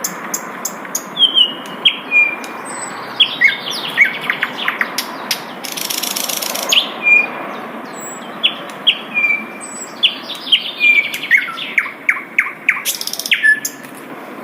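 Sikatan londo flycatcher singing: a busy run of short, sharp chirps and quick downward-sweeping whistles, with a brief burst of hiss about six seconds in.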